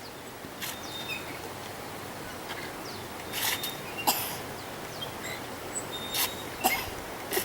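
Outdoor ambience with faint, short bird chirps and several sharp clicks or knocks scattered through it.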